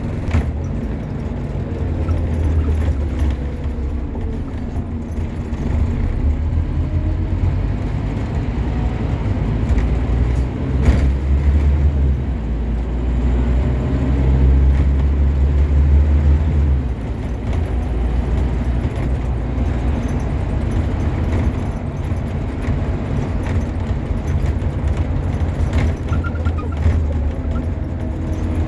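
Scania N230UB OmniCity bus's five-cylinder diesel engine heard from on board, pulling hard under acceleration with a deep drone and rising pitch. It eases off sharply a little past halfway, then runs on more lightly.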